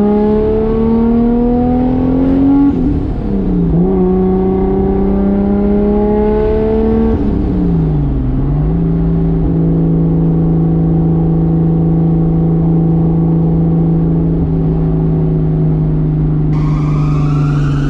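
Single-turbo Toyota 2JZ inline-six engine accelerating gently, with revs climbing slowly and dropping at two upshifts, then holding a steady cruise. This is light-throttle cool-down running after full-throttle runs.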